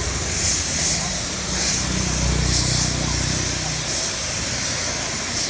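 Air spray gun spraying clear coat onto a motorbike wheel rim: a steady high hiss that swells in short pulses about once a second as the gun is worked.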